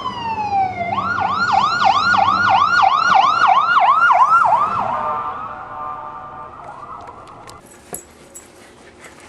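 Emergency vehicle siren: a wail falling in pitch, then a fast yelp of rapid up-and-down sweeps for about four seconds, switching to a quicker warble that fades away about three quarters of the way through.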